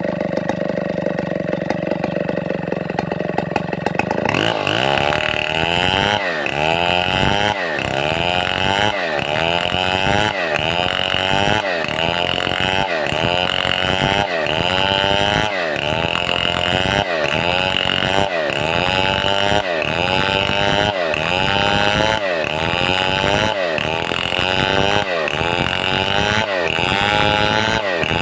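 Stihl 070 two-stroke chainsaw running at high revs, then from about four seconds in working under load, its engine note dipping and recovering about once a second as the bar bites into the wood.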